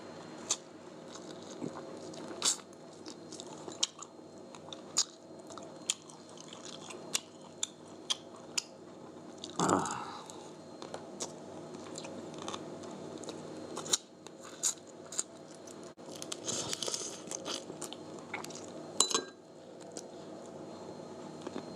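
A person eating close to the microphone: chewing and crunching, with many short sharp clicks and smacks and a louder noisy burst about ten seconds in.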